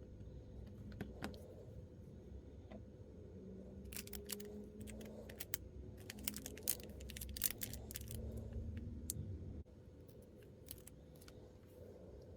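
Quick small clicks, ticks and crinkles of miniature plastic pieces and their packaging being handled, busiest in the middle and stopping short about two-thirds through.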